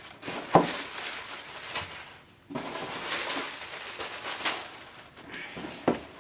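Cardboard shipping box and its packing being handled and opened: rustling and scraping with a few sharp knocks, one about half a second in and one near the end.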